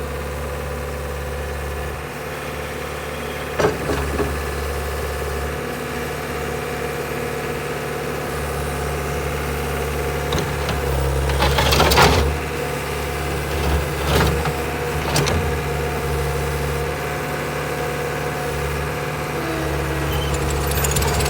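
Caterpillar 277B tracked skid steer's diesel engine running steadily, with a few sharp metallic clanks and knocks, the loudest about twelve seconds in.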